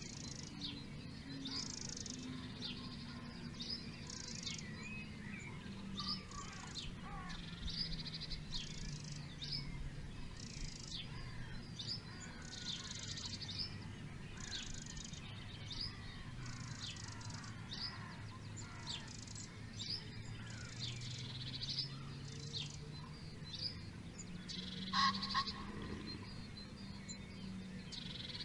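Songbirds chirping and trilling in short, repeated phrases, with one louder call about twenty-five seconds in, over a faint low drone that slowly sinks and then rises again in pitch.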